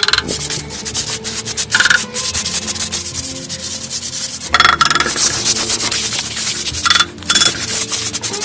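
Rapid, repeated scraping and rubbing strokes, loud and continuous, with faint background music and a few short higher-pitched notes.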